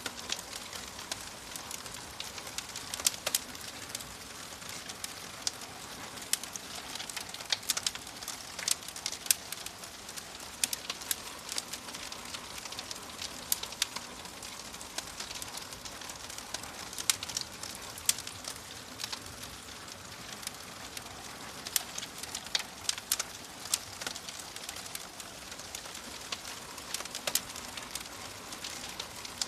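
Wood fire in a fireplace crackling, with sharp irregular pops and snaps over a steady hiss.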